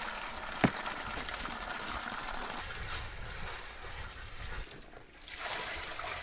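Water being poured and sloshing into the ducks' waterer, with a sharp click under a second in and a brief lull about five seconds in.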